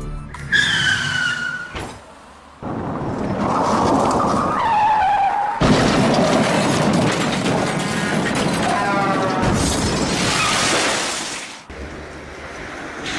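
Car crash sound effects: tyre screeches, then a long, loud crash noise with shattering glass.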